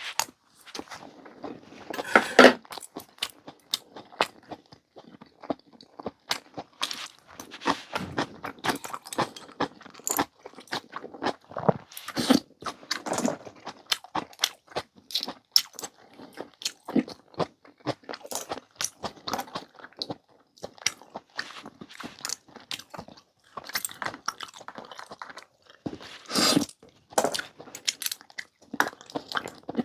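Close-miked eating sounds: steady chewing and crunching with many small wet clicks and smacks, and a few louder, longer bursts around two seconds in, halfway through and near the end.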